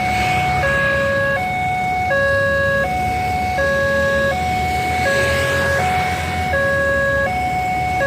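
Electronic two-tone warning alarm of a railroad level-crossing signal, alternating steadily between a lower and a higher tone about every three-quarters of a second, over a low rumble.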